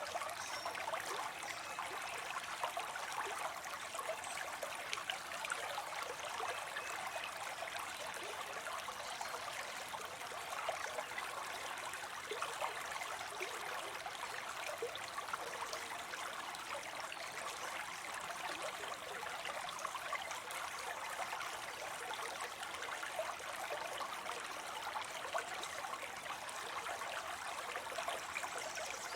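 Water spilling into a pond: a steady splashing trickle of falling water, even throughout.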